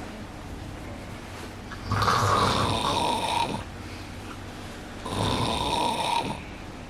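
A man snoring loudly in his sleep, with two long rasping snores about three seconds apart.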